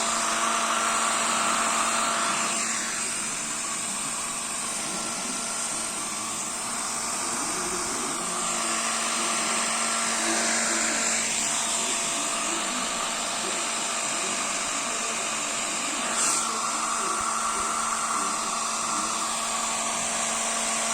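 Electric hot-air blower running steadily, blowing warm air; its whir shifts in pitch now and then as it is moved, with a brief knock about sixteen seconds in.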